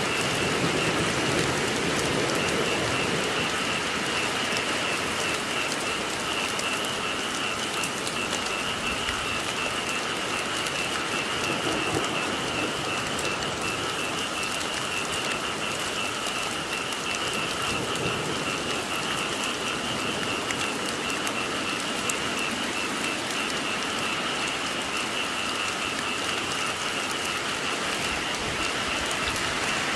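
Steady rain falling, with a continuous high, pulsing chorus of frogs calling underneath.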